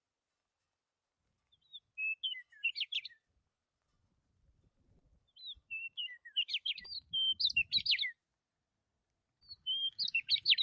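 Bird song in three short phrases of quick, varied chirps and whistles, starting about one and a half, four and a half and nine and a half seconds in.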